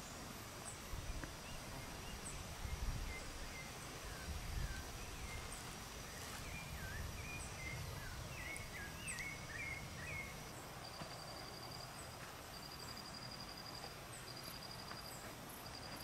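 Rainforest ambience: small birds calling with short, quick chirping notes and thin high chips over a steady high insect tone. About two-thirds through, an insect's pulsed trill starts, repeating in short bursts. A few low rumbles in the first few seconds.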